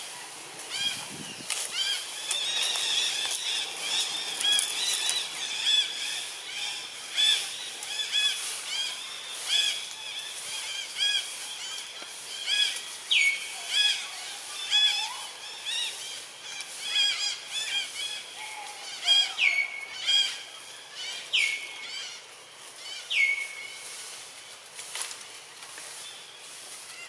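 Birds calling: a continuous run of short, repeated chirps, with four sharp whistles that drop quickly in pitch in the second half.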